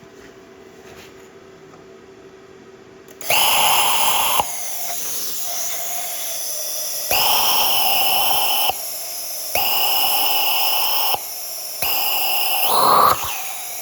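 Plasma torch cutting out an old steel bushing: a loud hissing arc in four bursts of one to two seconds, with a softer rush of air between them. For the first three seconds only a lower steady hum is heard before the first burst.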